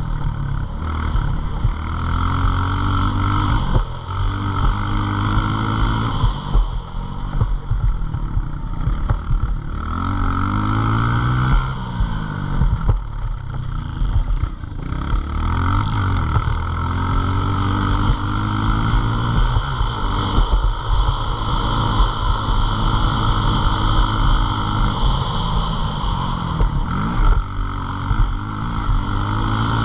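Small single-cylinder pit bike engine being ridden hard, its pitch climbing under throttle and dropping off again every couple of seconds through gear changes and throttle lifts.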